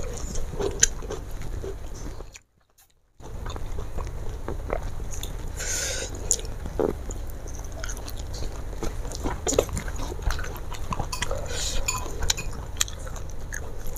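Close-miked eating sounds: a person chewing and biting mouthfuls of rice, fried fish and sambal eaten by hand, with many short wet clicks and smacks. The sound drops out to silence for under a second about two and a half seconds in.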